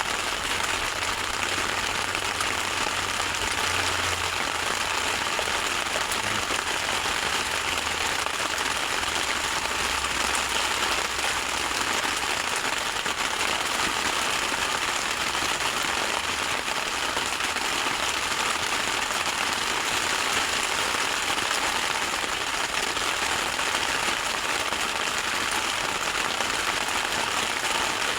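Heavy rain falling steadily, a dense even hiss of many drops, with a low rumble under it for the first dozen seconds.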